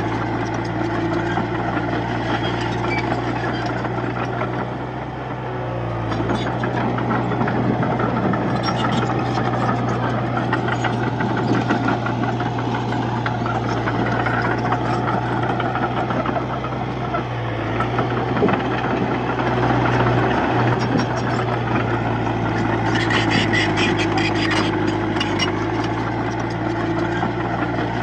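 Komatsu D31P bulldozer's diesel engine running steadily under load, dipping briefly a few times, with stretches of rapid clatter about nine seconds in and again near the end.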